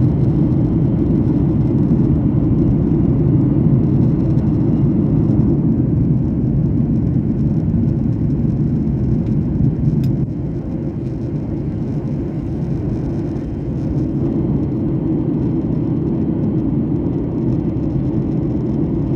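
Airliner cabin noise in flight: a steady, deep rumble of engines and airflow. There is a single faint click about halfway through, and the rumble is a little quieter for a few seconds after it.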